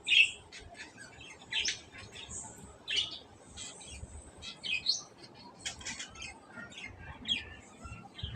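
Birds chirping: a loud call right at the start, then a run of shorter chirps and quick trills.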